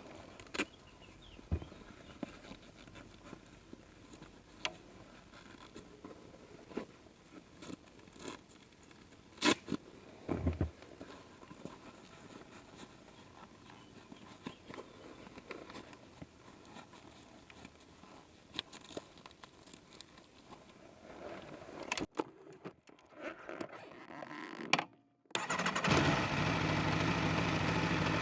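Scattered light clicks and knocks of handling, then about 25 seconds in the Aprilia RSV4 1100 Factory's V4 engine starts and settles into a steady idle.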